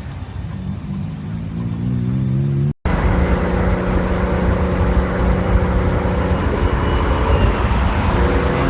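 Loud aftermarket exhausts on modified cars. For the first few seconds an engine drops off a rev and climbs again. After an abrupt cut, a different car's engine runs at steady revs with a heavy, constant drone.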